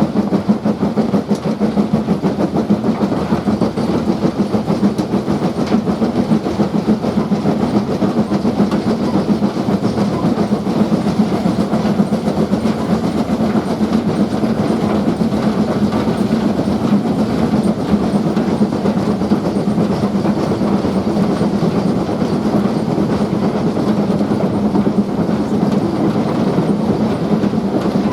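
Train running along the track: a steady rumble and rattle of wheels on rails, with a constant low hum underneath.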